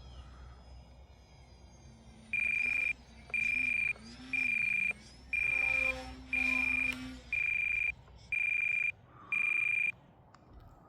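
Electronic alarm on an RC transmitter beeping eight times at one pitch, about once a second, typical of a low-battery warning as the flight battery runs down. Under the first beeps, the foamy's electric motor is faintly heard rising and falling in pitch.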